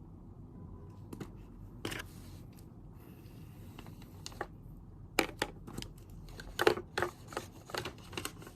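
Desk handling noises: a scatter of sharp clicks and taps with some rustling, such as stationery and paper being moved about, coming thickest in the last three seconds, over a steady low room hum.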